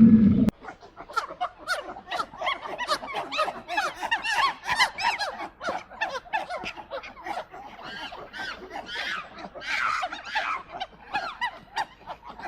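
A busy chorus of many animals chattering, with rapid, short, high calls overlapping one another; it follows a lion's roar that cuts off about half a second in.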